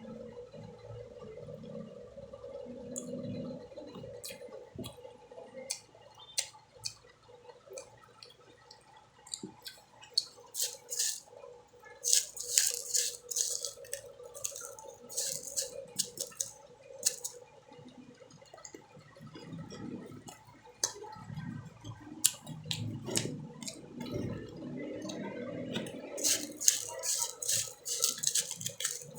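Close-up eating sounds: bites into mango and chewing, with many sharp crackly clicks in clusters.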